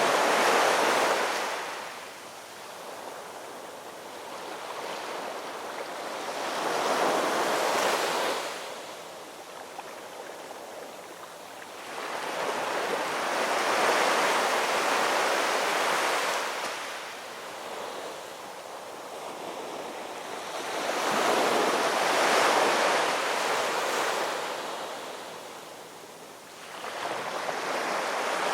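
Ocean surf breaking and washing up on a shore, in slow surges about every seven seconds: four waves swell and fade, and a fifth starts to build near the end.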